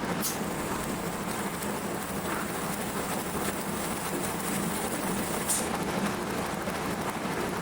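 Steady machine hum with a continuous crackling noise, and two sharper clicks about a third of a second in and about five and a half seconds in.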